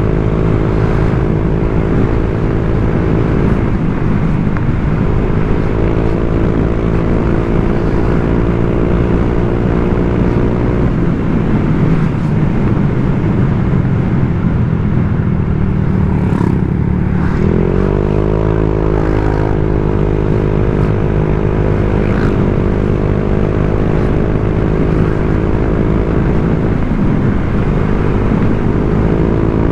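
Honda Vario 125 scooter's single-cylinder engine running through an aftermarket TZM-style 'standard racing' exhaust, cruising at steady throttle. A little over halfway through, the revs sag briefly, then climb back as the throttle is opened again.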